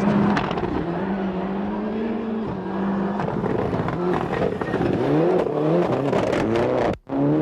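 A 1995 World Rally car's turbocharged four-cylinder engine at speed, holding steady revs at first. It then revs up several times in a row through gear changes in the second half, and cuts off abruptly near the end.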